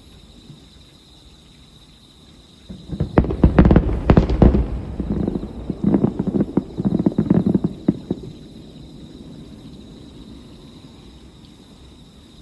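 Fireworks finale: a dense barrage of booms and crackling bangs starts about three seconds in and runs for about five seconds before dying away.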